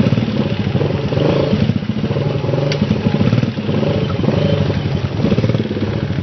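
Dirt bike engine running while riding, the revs rising and falling a little.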